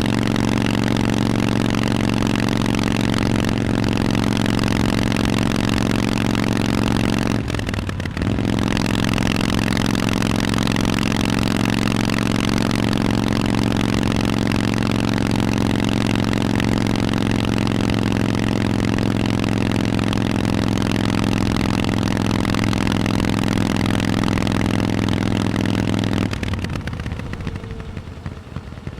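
Harley-Davidson Forty-Eight's air-cooled V-twin running through Vance & Hines exhausts at a steady engine speed under way. The sound breaks briefly a little over a quarter of the way in, then falls away sharply near the end as the throttle closes.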